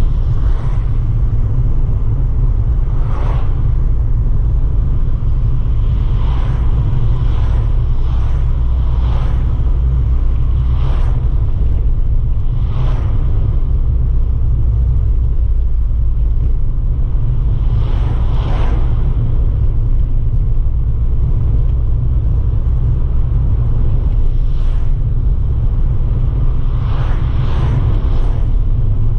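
Abarth 595 Pista's 1.4-litre turbocharged four-cylinder engine droning steadily while the car cruises, with no revving. About a dozen short whooshes rise and fall over it at irregular intervals.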